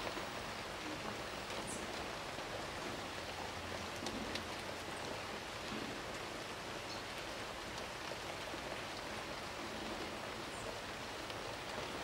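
Steady, even rain-like hiss, with a few faint, brief high chirps over it.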